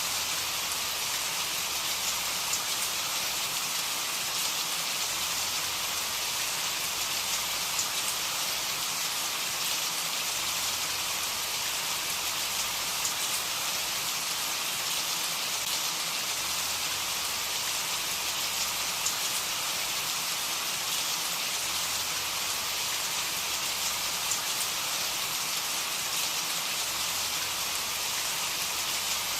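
Steady rain falling, an even hiss with faint pattering of drops.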